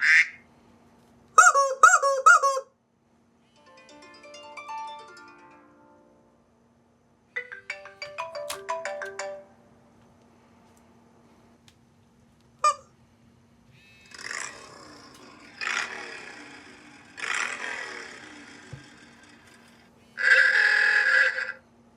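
A run of short iPhone ringtone snippets, one after another with silent gaps between them: chirping notes, a short tune, a rising run of notes, a single blip, several raspy bursts, then a buzzy tone near the end.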